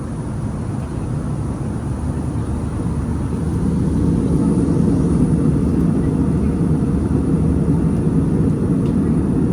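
Steady low cabin noise of an airliner in flight, the rumble of engines and airflow, growing a little louder about three to four seconds in.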